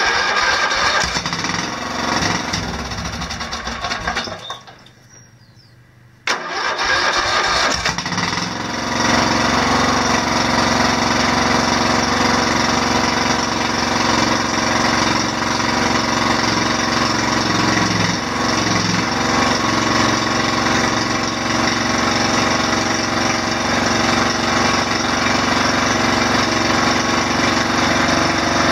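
Straight-piped, unmuffled Briggs & Stratton OHV small engine cold-starting after sitting for about ten months. The first attempt runs for about four seconds and dies, then it catches again about six seconds in and settles into a steady run.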